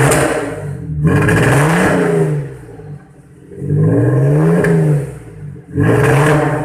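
Audi TT engine revved in repeated throttle blips, its note rising and falling about every two seconds. The car has a misfire that the workshop traced to low fuel pressure from a worn fuel pump.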